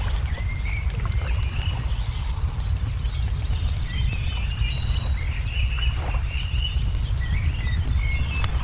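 Wood fire crackling with scattered sharp pops, while birds call in short chirps throughout, over a steady low rumble.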